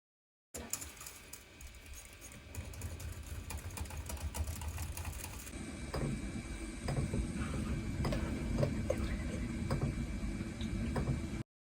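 Quick, irregular light clicks and taps over a low background noise, with the background changing abruptly about halfway through, like a cut between two takes.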